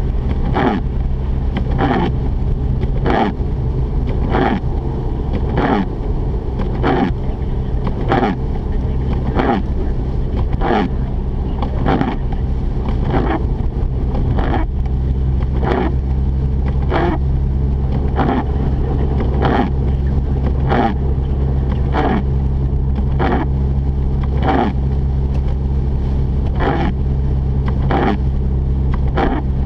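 Mazda RX-8 cabin while driving: a steady low hum from the two-rotor rotary engine and the tyres, with a rhythmic swish about once a second, typical of windshield wipers clearing snow.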